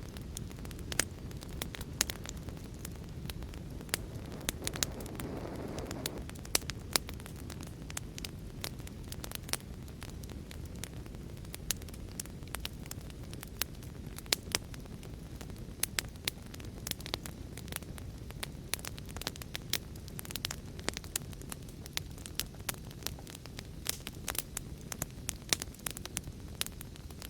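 Wood fire burning with a steady low rumble and frequent irregular sharp crackles and pops. A short soft whoosh of flame rises about five seconds in.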